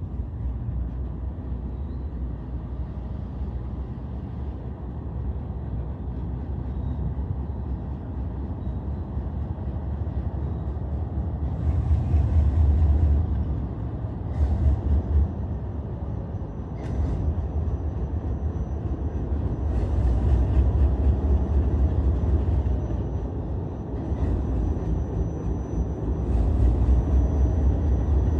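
Freight train's diesel locomotives rumbling as they roll slowly past behind covered hopper cars, with several short bursts of hiss and sharp clanks from the moving cars and a faint thin squeal in the second half.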